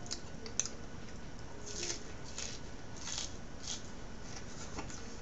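A person eating: a few soft chewing and mouth sounds spread through the stretch, with a few small clicks.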